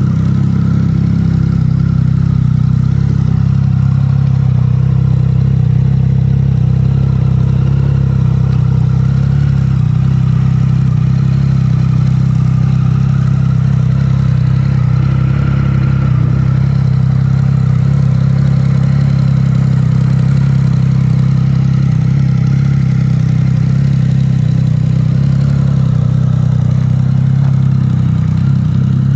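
Triumph Speed Triple S 1050's inline three-cylinder engine idling steadily.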